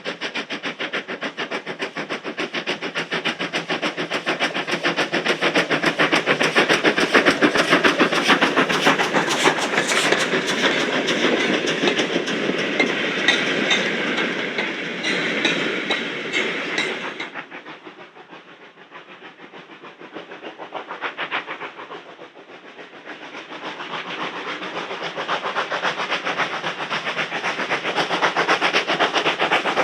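Steam locomotive working under power, with a rapid, regular exhaust beat. The sound drops away sharply about seventeen seconds in, then builds up again toward the end.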